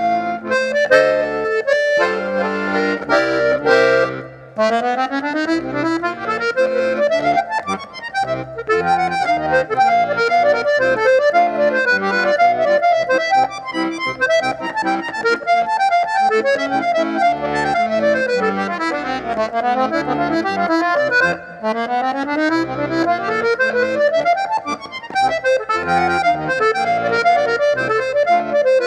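Sanfona (accordion) playing a fast instrumental melody, with quick runs of notes climbing and falling over bass notes beneath. The playing breaks off briefly about four seconds in and again about two-thirds of the way through.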